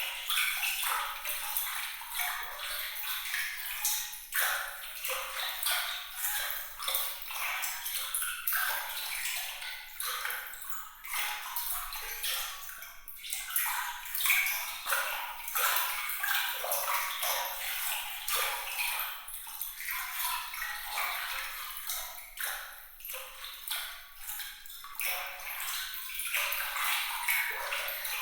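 Water trickling and dripping, a continuous busy patter of many small bright plinks and splashes with no deep sound in it, the 'sparkling' water sound meant for relaxation.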